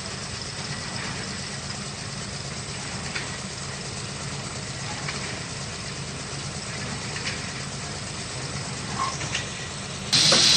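Engine running steadily at low speed with an even low hum. Near the end a loud hissing noise starts suddenly and keeps going.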